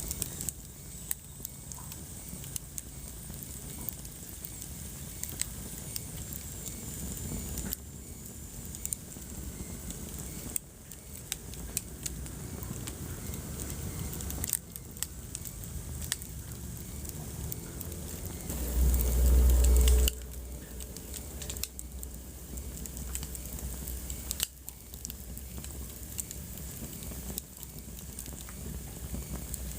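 Wood fire crackling in a fireplace: irregular pops and snaps over a soft steady hiss. A brief deep rumble about two-thirds of the way through is the loudest moment.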